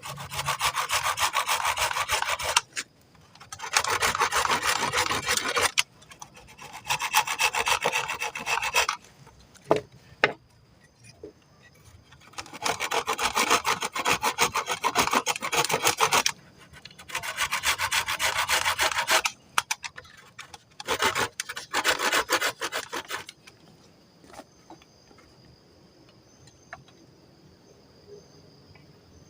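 Hand saw cutting wood in six bouts of quick rasping strokes, each lasting two to four seconds with short pauses between, followed by a few faint scattered ticks near the end.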